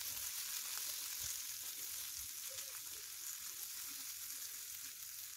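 Boiled potatoes, green peas and onion frying in oil in a pan, a steady low sizzle, while a silicone spatula stirs them.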